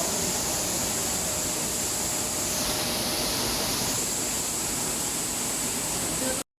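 Rice mill plant machinery running: a steady mechanical din with a high whine that dips twice, stopping abruptly near the end.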